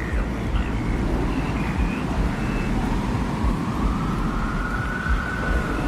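Steady low rumble of desert wind in a designed ambience. Over the second half, a thin whistling tone slowly rises and holds.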